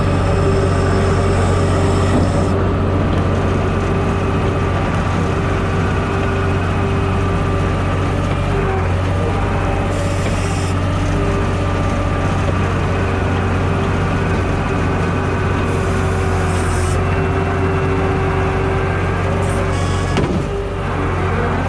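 Skid steer loader running steadily, a low engine drone with a steady higher tone over it, broken by a few short hisses.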